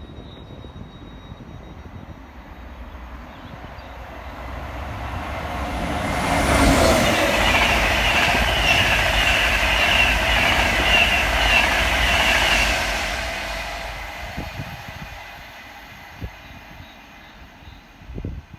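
A passenger train passing by: it builds up, runs loud and steady for about six seconds with a high whine or squeal from the wheels and motors over the rumble of the wheels on the rails, then fades away.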